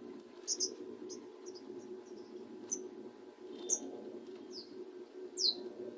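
A small bird trapped indoors chirping: short, high chirps that each fall in pitch, about one or two a second, over a steady low hum.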